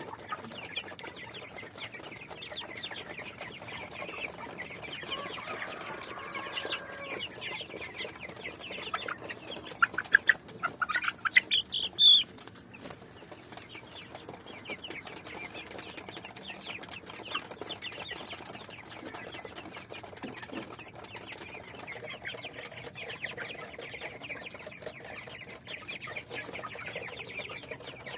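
A flock of chickens clucking continuously, with a louder run of squawking calls about ten seconds in that ends in one loud call.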